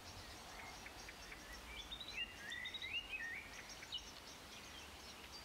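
Faint outdoor ambience with birdsong: a bird sings a short warbling phrase about two seconds in, with other short high chirps here and there.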